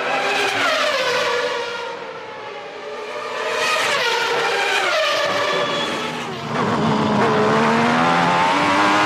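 1993 Formula One cars' high-revving racing engines: the engine note falls twice as cars slow, then climbs steadily from about six and a half seconds in as a car accelerates.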